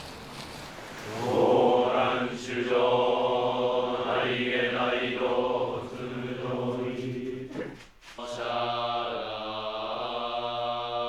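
Shingon Buddhist monks chanting a sutra together on one steady pitch. The chant starts about a second in and breaks off for a breath near eight seconds before going on.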